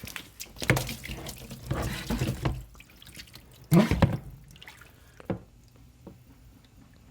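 Water splashing and sloshing in irregular bursts, loudest about four seconds in, then quieter.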